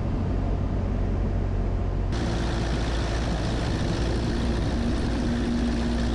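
Cessna 172S single-engine propeller plane heard from inside the cockpit, with the engine and propeller droning steadily on final approach. About two seconds in, the sound turns suddenly brighter and two faint steady tones join it.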